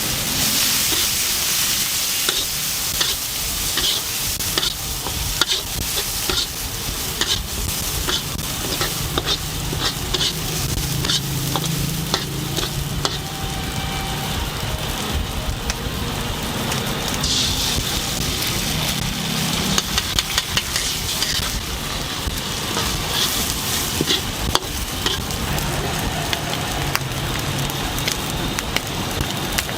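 Rice noodles and chicken sizzling in a hot wok, with a spatula scraping and clacking against the pan many times as they are stirred.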